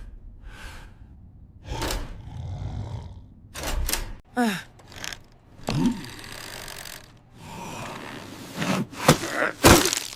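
A string of short knocks and thuds mixed with brief vocal gasps and groans, one of them falling in pitch.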